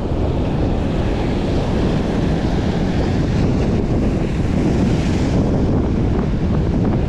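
Strong wind buffeting the microphone in a steady low rumble, with surf breaking behind it.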